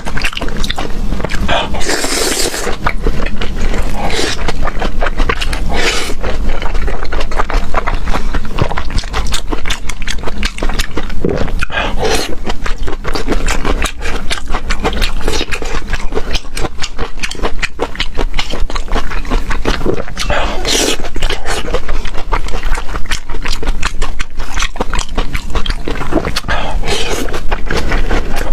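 Close-miked eating: continuous loud chewing and wet mouth noises, with a few louder slurps along the way.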